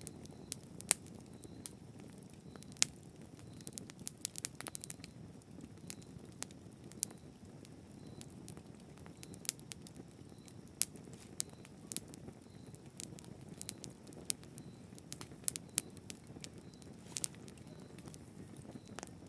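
Bonfire burning: a steady low rush of flame with frequent irregular sharp crackles and pops from the burning wood.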